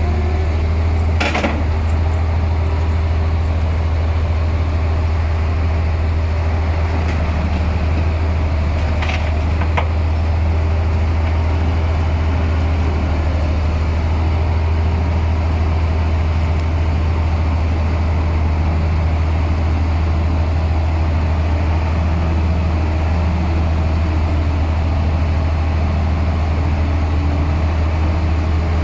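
Diesel engine of heavy earthmoving machinery running steadily with a deep, constant low rumble. Two brief sharp knocks, about a second in and about nine seconds in.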